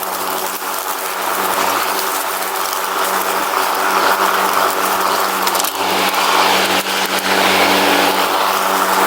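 Lawn mower engine running steadily under way, with a noisy whirr over it and scattered rattling clicks; it gets a little louder about four seconds in.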